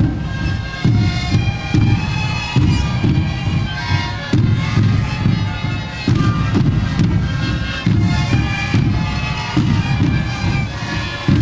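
A sikuri ensemble playing: a dense chorus of breathy siku panpipes sounding together over a steady beat of large bass drums.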